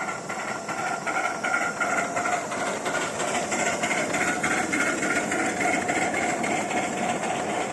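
Steam-hauled train running, with a fast regular beat; it grows louder over about the first second, then holds steady.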